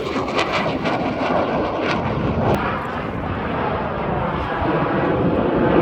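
A fixed-wing aircraft flying past, its engine noise a steady rushing that grows louder toward the end.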